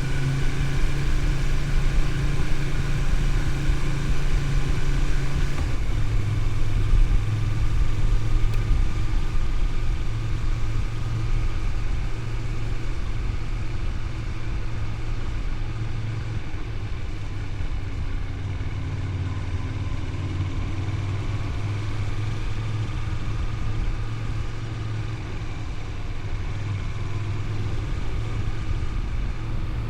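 Honda VTR250's 250 cc V-twin engine running steadily as the motorcycle cruises, its note stepping down a little about six seconds in.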